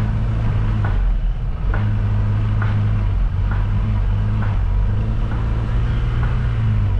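Motor vehicle engine running steadily while driving, a low even drone, with faint regular ticks a little more than once a second.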